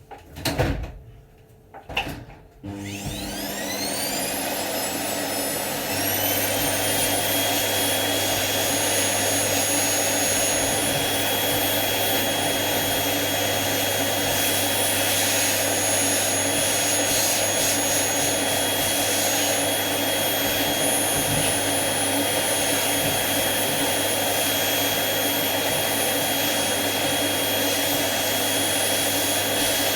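Two knocks, then a vacuum cleaner's motor switches on and spins up, its whine rising in pitch. It steps up in level about six seconds in and then runs steadily with a high whine over a rushing hum.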